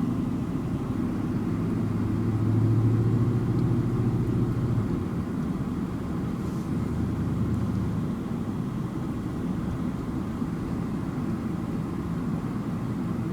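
Car driving at low speed: steady engine and road rumble, with a low engine hum that grows louder about two seconds in and drops back about five seconds in.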